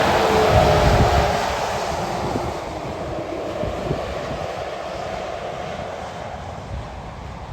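A truck passing by and fading away: engine tones dip slightly in pitch as it goes by in the first second or so, then a steady rush of tyre and wind noise slowly dies down.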